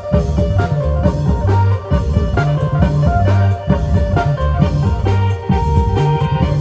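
Isan long-drum (klong yao) ensemble playing, with deep drum beats in a steady rhythm under a melody on plucked strings.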